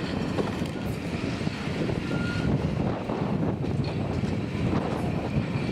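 Train running along the track, heard from a window of the moving carriage: a steady rumble of wheels and running gear, with some wind on the microphone.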